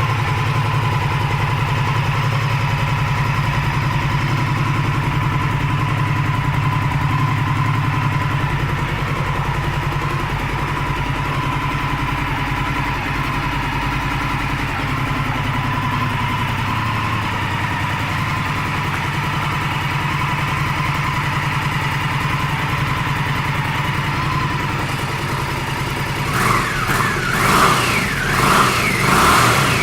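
2016 Indian Scout's liquid-cooled V-twin idling steadily, then blipped up about four times in quick succession near the end.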